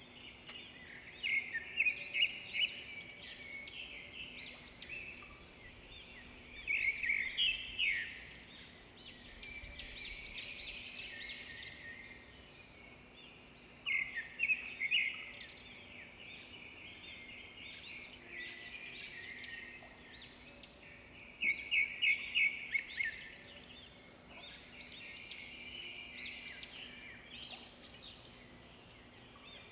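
Small birds chirping, with several louder bursts of quick repeated chirps, over a faint steady hum.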